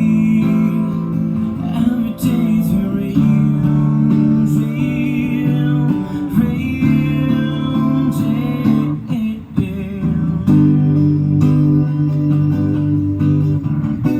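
Acoustic guitar strummed and picked, playing a slow song, with a voice singing over it at times.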